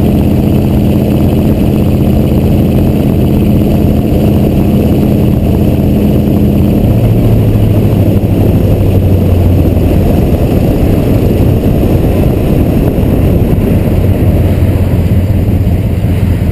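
6.2 Detroit V8 diesel of a 1986 Chevrolet C30 dually running loud through its exhaust stacks, close to the microphone. About seven seconds in, the engine note drops sharply to a lower, steady pitch.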